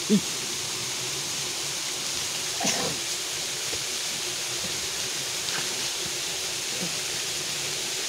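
Steady hiss of water throughout, with a brief human vocal sound right at the start and another about two and a half seconds in.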